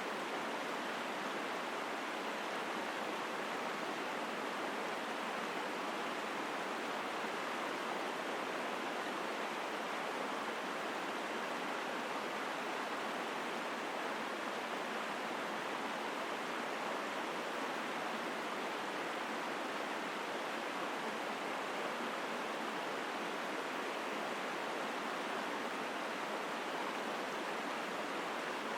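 Mountain stream flowing strongly over rocks: a steady, even rush of water with no breaks or changes.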